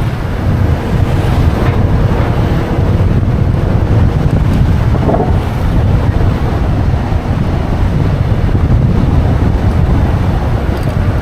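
Wind buffeting the microphone of a camera on a moving motorbike, a steady low rumble, with the bike's running and road noise underneath.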